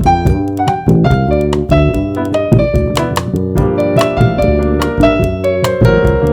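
Jazz trio playing: a keyboard plays a busy run of notes and chords over bass and drums, with the cymbals ticking steadily.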